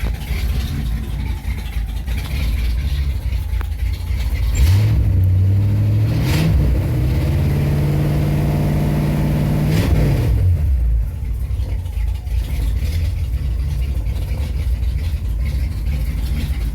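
Engine of a 1948 Ford custom coupe running on a cold start: idling, then revved up at about four and a half seconds, held at a steady higher speed for several seconds, and dropped back to idle about ten seconds in.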